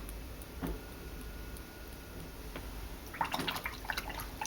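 Watercolour brush being worked in water and wet paint: a few faint taps, then about three seconds in a quick run of small clicks and watery ticks.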